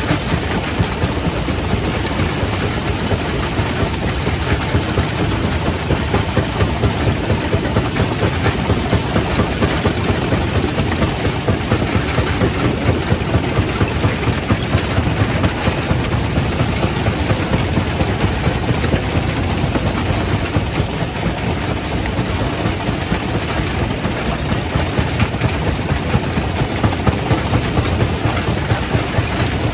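Primary rock crusher running in a quarry: a loud, dense mechanical clatter and grinding with a heavy low rumble and a steady run of regular pulses.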